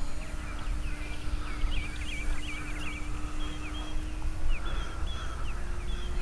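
Birds chirping, many short calls in quick clusters, over a low rumble and a faint steady hum.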